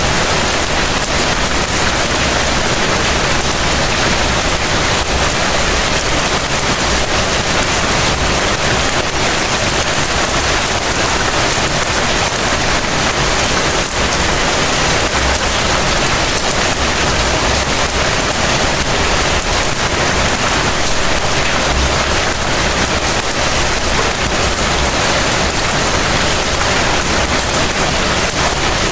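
Heavy rain falling steadily, an even, dense hiss that holds at one level throughout without breaks.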